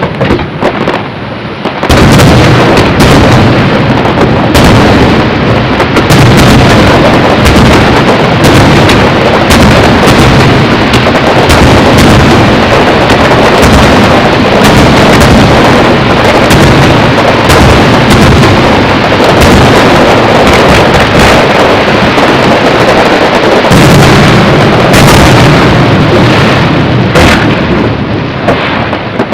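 Fireworks display: a dense, continuous barrage of shell bursts, very loud throughout. It builds up about two seconds in and thins a little near the end.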